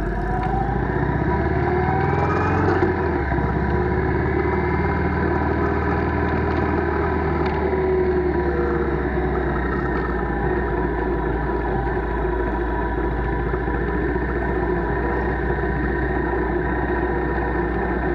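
Motorcycle engine running steadily while riding, with its pitch climbing during the first few seconds, over a steady rumble of wind and road noise.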